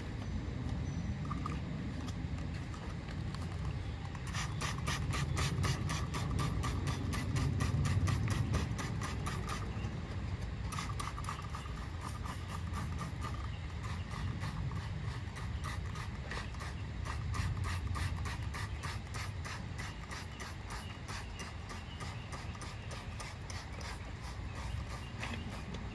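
Rapid rhythmic scrubbing or scraping strokes, about four or five a second, starting about four seconds in, over a steady low rumble.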